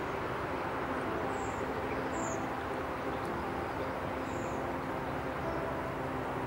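A few short, high bird chirps over a steady background hum.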